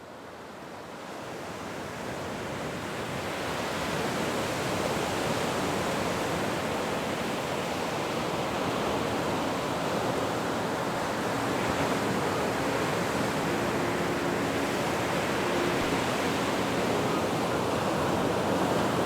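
Steady, even rush of ocean surf, fading in over the first few seconds.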